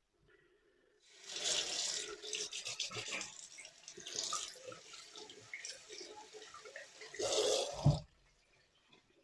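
Water running from a tap into a sink, splashing unevenly with several louder surges, then shut off about eight seconds in with a short dull knock.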